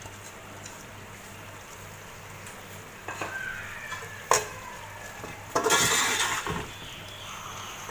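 A metal spoon scraping and clinking in a steel cooking pot, with one sharp clink about four seconds in. From just past halfway, a loud frying sizzle as chopped coriander and green chillies are stirred into beef and tomato masala frying in oil.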